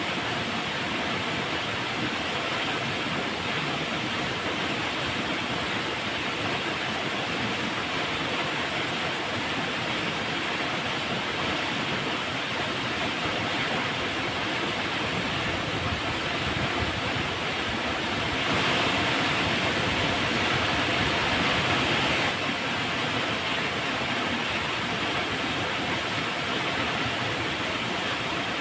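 Steady rushing of flowing river water, a constant even noise. About two-thirds of the way in it turns louder and brighter for roughly four seconds, then drops back suddenly.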